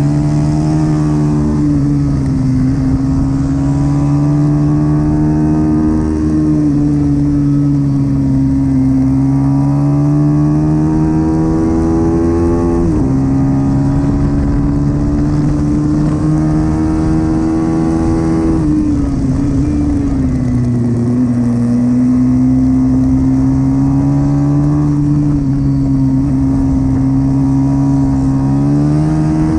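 Pit bike engine racing hard, its pitch rising and falling with the throttle, with sudden drops in pitch about thirteen and nineteen seconds in.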